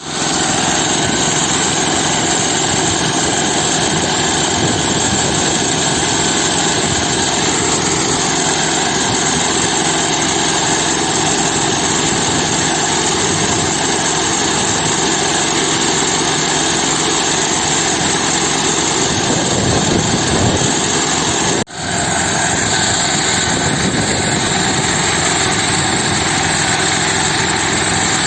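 D.K. Champion tractor engine running steadily, with a sudden brief dropout about three quarters of the way through before it carries on.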